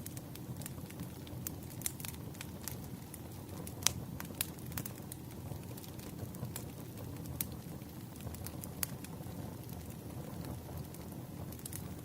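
Firewood burning: a steady low rumble of flames with irregular sharp crackles and pops from the logs, the loudest pop about four seconds in.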